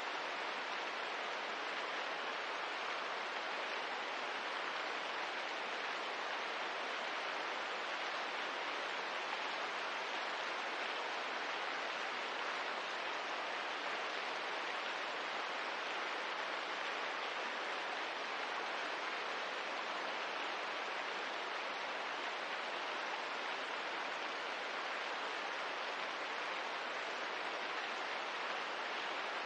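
Steady rain ambience, an even, unbroken hiss with no distinct drops or fire crackles standing out.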